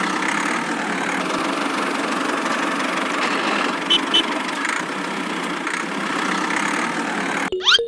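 Steady running of a miniature DIY tractor's small motor, with two short high beeps about halfway through and a quick rising sweep near the end.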